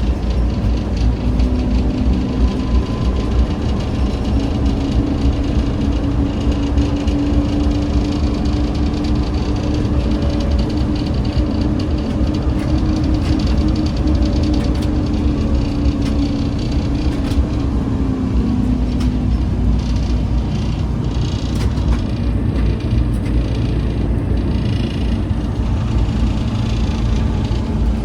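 ZiU-682G trolleybus under way, heard from aboard: a heavy, steady rumble of the ride with a traction-motor whine that rises in pitch and then falls away again. Scattered rattles and clicks come in near the end.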